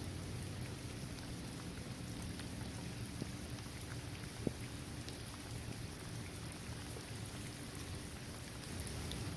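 Steady rain falling on a basketball court, trees and grass, with scattered drops ticking through it. One sharper drop tick about four and a half seconds in.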